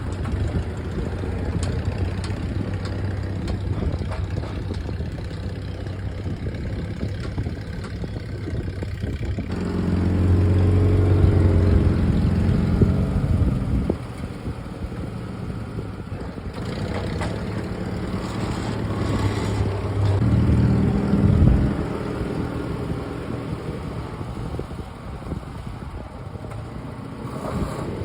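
Willys Jeep engine running while plowing snow, revving up and getting louder twice, about ten seconds in and again around twenty seconds, then settling back.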